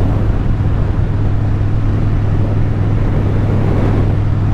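2016 Harley-Davidson Street Bob's V-twin engine running steadily at cruising speed, with wind and road noise on a helmet-mounted microphone.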